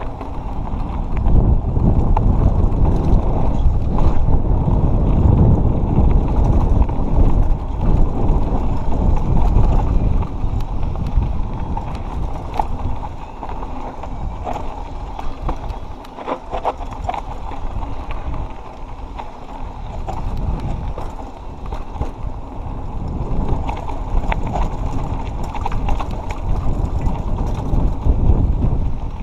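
Mountain bike descending a dirt trail: tyres rumbling over the ground, with frequent rattles and knocks from the bike over rough terrain and wind buffeting the microphone. It is louder in the first half.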